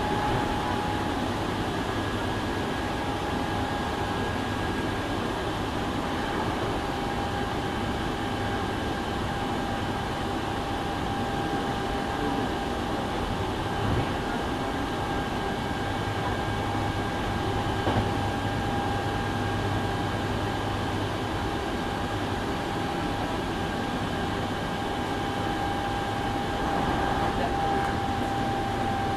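Inside a Hankyu 7000-series electric train car while it runs: steady running noise with a steady whine that drifts slightly lower in pitch, and a couple of faint knocks.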